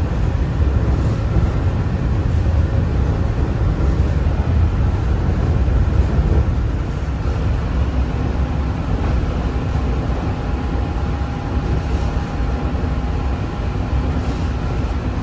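Walt Disney World monorail running, heard from inside the cabin: a steady low rumble, with a faint motor whine coming in about halfway.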